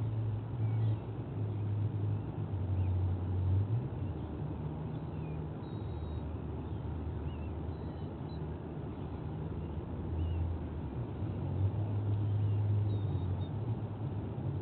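Steady low outdoor rumble with a few faint, short, high bird chirps.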